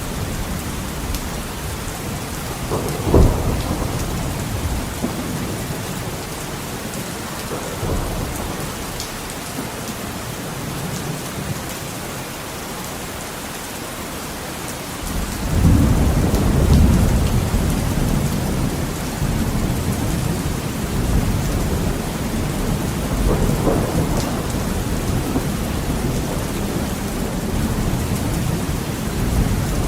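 Heavy rain hitting a window, with thunder: a sharp crack about three seconds in, then a deep rolling rumble that starts suddenly about halfway through and lasts several seconds.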